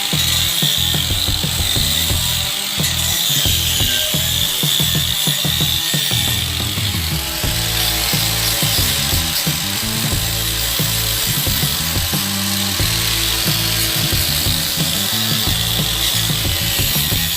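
Stick-welding arc with a 3/32 electrode at 45 amps, a continuous crackling sizzle with rapid irregular pops.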